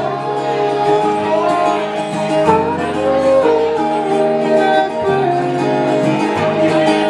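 Live acoustic guitar playing, an instrumental passage in an acoustic band performance.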